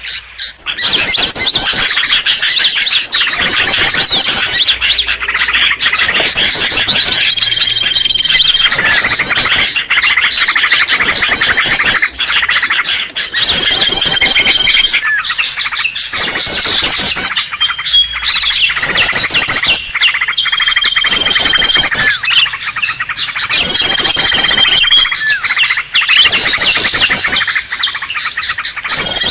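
Green leafbirds (cucak ijo) calling agitatedly: loud, fast chattering warbles and trills, with a held high whistle repeating every few seconds. This is a looping lure recording of the type used to call in wild leafbirds.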